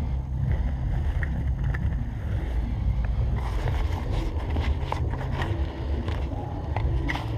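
Wind buffeting the microphone as a steady low rumble, with scattered light clicks and crackles starting about halfway through.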